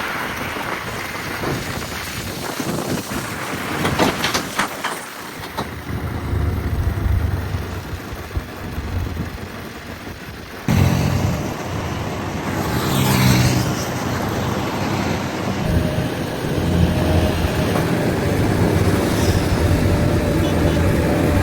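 JCB backhoe loader's diesel engine running under working load, with a few sharp cracks and knocks about four seconds in. About halfway through the sound changes abruptly and becomes louder, with a whine that rises and falls.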